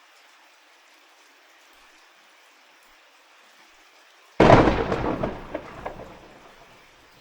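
Steady light rain, then about four seconds in a sudden loud thunderclap that rumbles and dies away over about two seconds.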